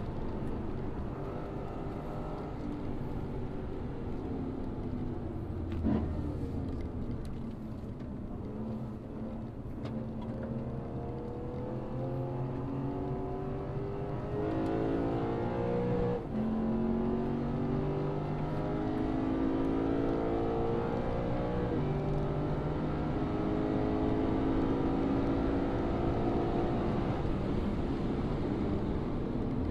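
Lexus RC F's 5.0-litre V8 accelerating hard through the gears. Its pitch climbs again and again and drops at each upshift, with a sharp bang about six seconds in.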